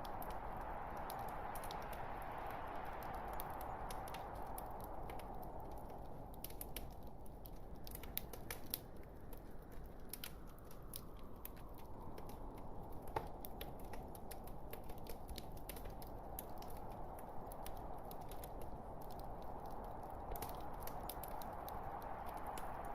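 Wood fire burning in a fireplace: a steady soft rush with scattered sharp crackles and pops, one louder pop about 13 seconds in.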